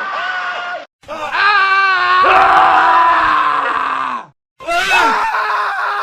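Montage of separate male screams, one after another: a short one, a long wavering scream lasting about three seconds, then another starting near the end. Each clip cuts off suddenly with a brief moment of silence before the next.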